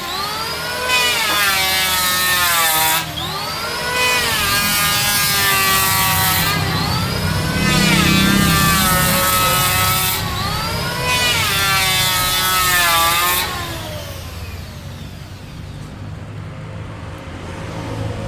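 Electric woodworking power tool cutting mahogany in repeated passes, about one every three seconds, its motor whine rising and falling with each pass. About 13 seconds in, the tool switches off and winds down.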